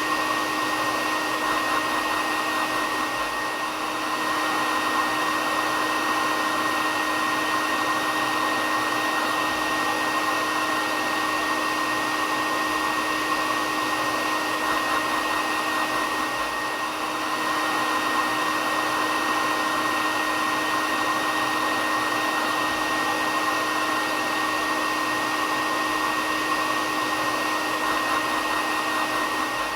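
Hair dryer running steadily: an even rushing noise of blown air with a constant low hum and a high whine underneath.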